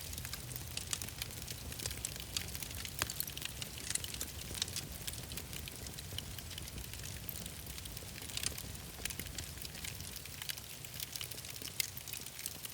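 Wood fire crackling in a fireplace, with frequent small sharp pops and snaps over a steady low rumble.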